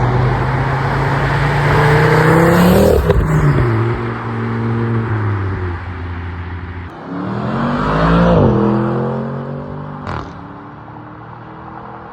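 A car engine accelerating hard. Its pitch climbs for about three seconds, then falls away, then climbs again about seven seconds in, with a single sharp crack about ten seconds in.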